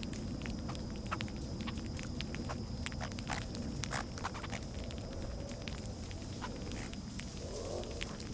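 Scattered small clicks and taps of birds and a chipmunk foraging at a backyard feeder, over a steady high-pitched hum and a low background rumble.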